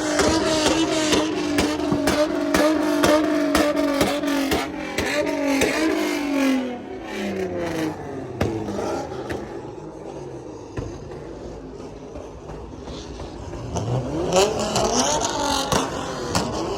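Car engine revving: held at high revs for several seconds with sharp pops over it, then the revs drop away. Near the end the revs climb again.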